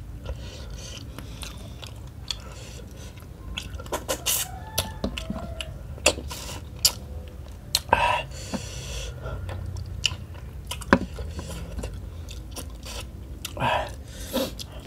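Close-miked chewing and wet lip-smacking of a person eating rice and smoked tuna in curry sauce by hand. Sharp mouth clicks are scattered throughout, with a few louder wet smacks, one about eight seconds in and another near the end.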